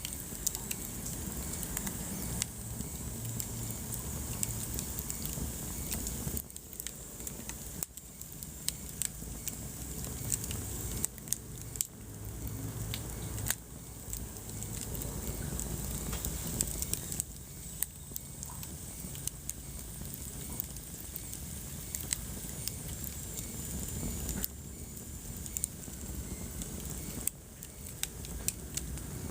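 Wood fire burning in a fireplace, crackling with frequent small sharp pops over a low steady rumble of the flames.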